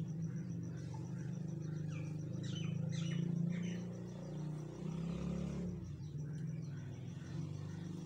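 A few short, falling bird chirps about two to four seconds in, over a steady low hum.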